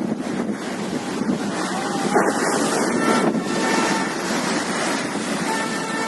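Rough, steady noise of high-tide waves and wind at a seafront, with wind buffeting the microphone. A faint steady tone comes in near the end.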